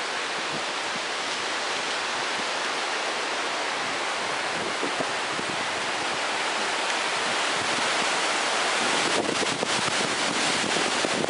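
Heavy rain falling in a steady hiss, growing a little louder and rougher near the end.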